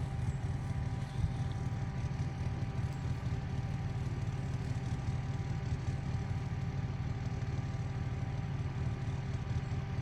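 Vehicle engine idling steadily, a low even rumble with a faint steady hum above it.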